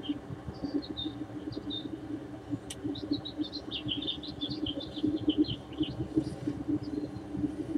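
Small birds chirping in quick, busy bursts, thickest in the middle, over a low steady hum.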